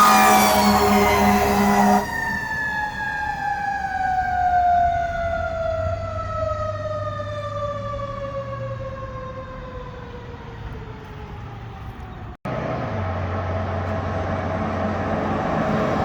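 A fire truck siren winds down: its pitch falls slowly and steadily over about ten seconds as it fades. It breaks off suddenly near the end, leaving steady engine and road noise with a low rumble.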